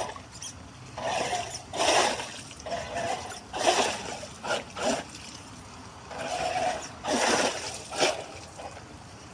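Water splashing in a series of irregular bursts, about eight in the space of several seconds.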